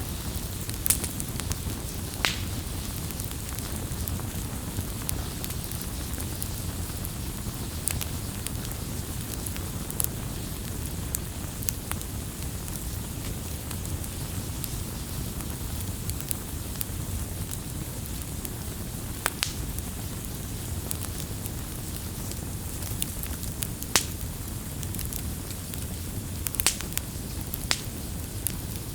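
Wood campfire burning with a steady low rush, and sharp crackles and pops from the burning wood scattered irregularly through it.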